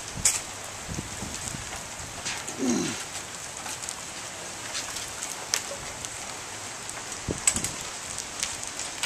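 Steady rain falling on lawns and pavement, with scattered sharp ticks. About two and a half seconds in, a short low sound drops in pitch.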